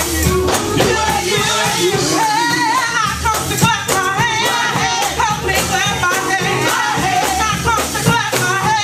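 Gospel song sung by a congregation with live band accompaniment: voices carrying the melody over bass and a steady drum beat.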